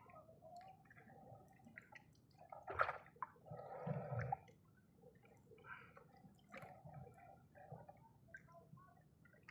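Faint dripping and sloshing water with scattered small clicks, a sharper knock about three seconds in and a brief louder splash or gurgle just after.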